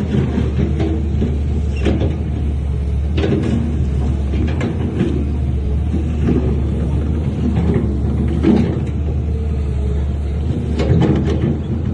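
Heavy diesel earthmoving machinery running with a steady low rumble, with irregular metallic clanks and knocks every second or two.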